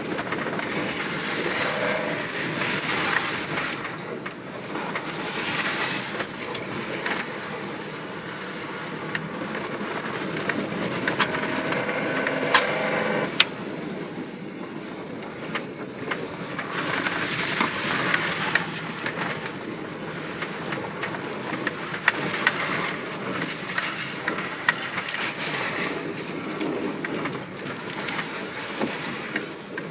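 Old pickup truck driving slowly, its engine running under a continuous rattle and clatter with scattered sharp clicks; the engine is burning off a tank of partly bad fuel.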